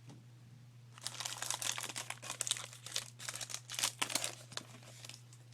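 A trading card pack's wrapper being torn open and crinkled by hand: dense crackling that starts about a second in and dies away near the end.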